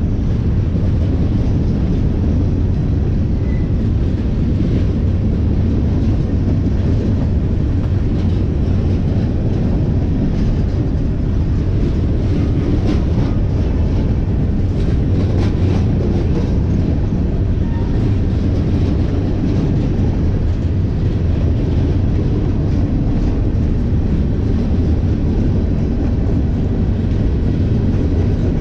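A train rolling past on the rails: a steady low rumble, with faint clicks around the middle.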